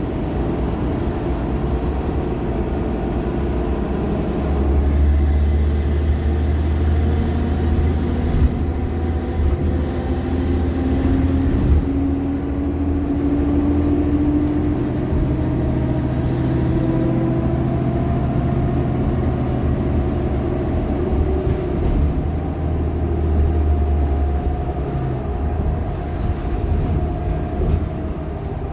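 Articulated Nova LFSA hybrid bus driven by a Cummins ISL9 straight-six diesel and an Allison H50 EP hybrid drive. The low drone of the drivetrain swells about four seconds in and drops off near the end, with tones that slowly rise in pitch as it pulls. A thin, very high whine rises at the start and glides down and away near the end.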